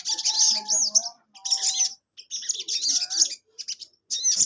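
Sogon (crimson sunbird) singing in rapid, high-pitched chirping phrases, several bursts broken by short pauses.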